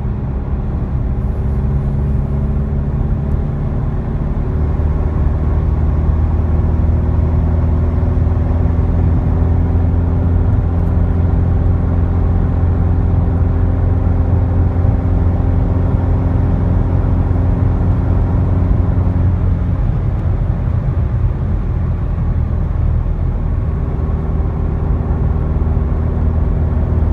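Volkswagen Golf GTI Mk7's 2.0-litre turbocharged four-cylinder running through a custom single-sided, no-drone exhaust, held at a near-steady engine speed. It gives a loud, even low hum that eases off about twenty seconds in.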